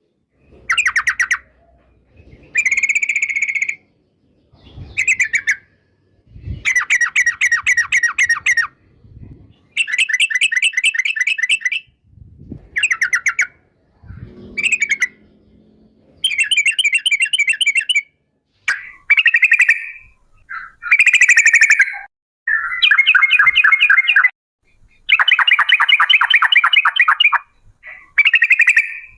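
Yellow-vented bulbul song: repeated bursts of rapid, bubbly chattering phrases, each a second or two long, with short pauses between them.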